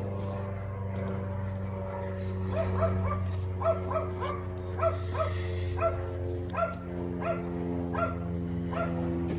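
A dog barking in short, high yips, repeated about once or twice a second from about two and a half seconds in, over a steady low hum.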